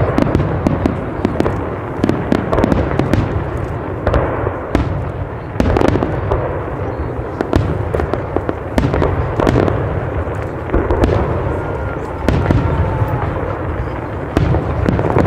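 Fireworks display: a dense, continuous barrage of bangs and crackles from bursting shells, with no pause.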